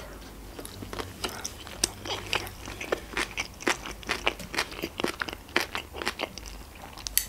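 Close-miked chewing of a sushi roll with the mouth closed: many short, irregular clicks, a few a second.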